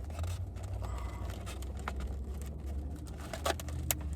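Car engine idling, a steady low hum heard inside the cabin, with two sharp clicks near the end.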